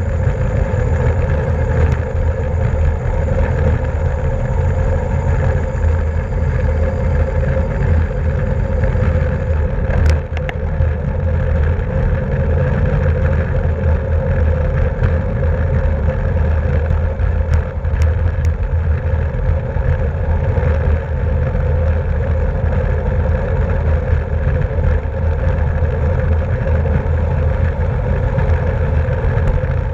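Steady wind rush and rumble over a bike-mounted action camera's microphone while riding at race speed, with a few brief clicks.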